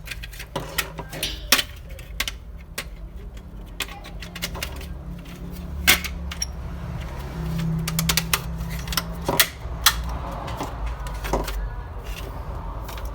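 Scattered clicks and light clatter of cable connectors being handled and plugged onto a washing machine's electronic control board, over a low steady hum.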